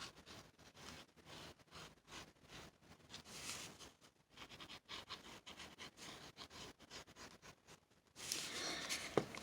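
Faint rubbing and small taps of glue being applied to paper, with a louder stretch of rubbing near the end.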